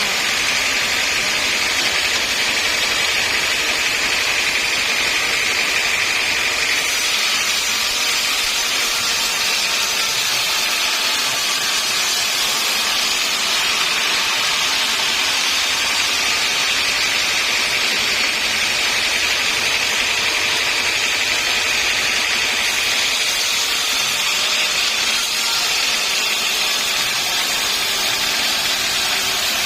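Sawmill machinery running steadily, an even high-pitched whine over a loud hiss with no breaks.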